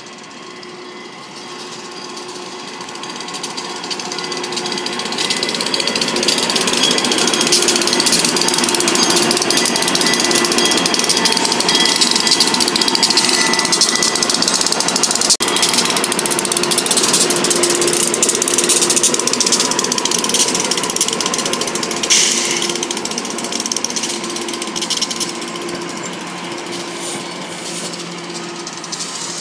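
SEPTA electric commuter train coming into the station and rolling past close by: a dense, steady rattle and clatter of wheels and running gear with a few steady whining tones over it. It builds over the first few seconds, has a short louder burst about two-thirds of the way through, and eases off near the end as the train slows to a stop.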